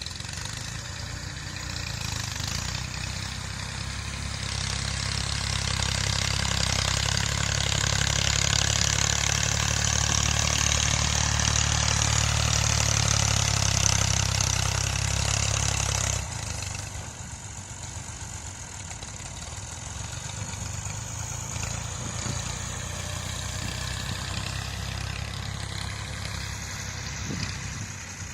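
Massey Ferguson tractor's diesel engine running, growing louder for the first half, then dropping suddenly to a lower, steadier run about sixteen seconds in.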